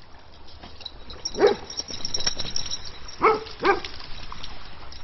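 A dog barking three times: once about a second and a half in, then twice in quick succession a little past three seconds.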